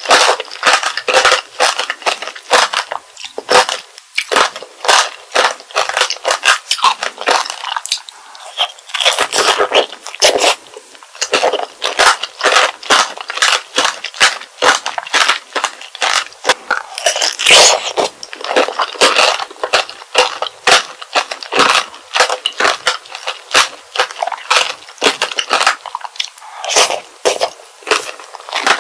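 Strawberry tanghulu being bitten and chewed: the hard sugar-candy shell cracking and crunching between the teeth, mixed with chewing of the juicy strawberry, in dense, irregular crunches throughout.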